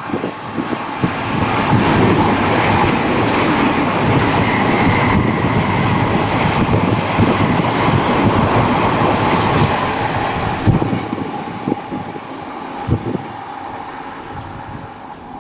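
Odakyu 4000-series electric train passing through the station at speed, its wheels rumbling on the rails. The sound builds over the first two seconds, holds, then fades from about ten seconds in, with a few sharp knocks near the end.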